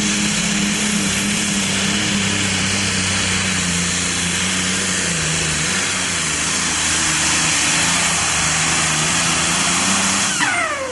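Diesel super stock pulling tractor engine running flat out under load down the track, its pitch holding steady with a brief dip midway. Near the end the power is cut suddenly and a high whine falls away in pitch as the engine winds down.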